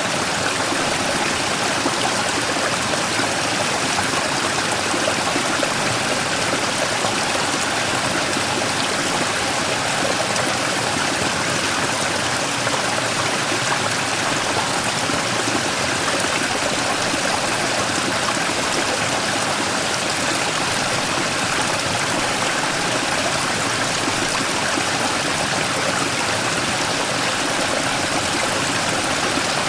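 Mountain stream rushing steadily over and around a large rock, a continuous even splashing and gurgling of water with no pauses.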